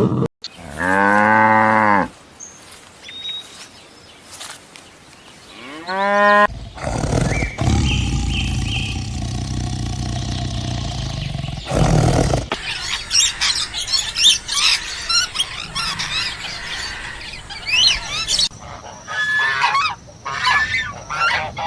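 A run of animal calls: a cow mooing once near the start, followed by other short animal calls, and many quick high chirps in the second half.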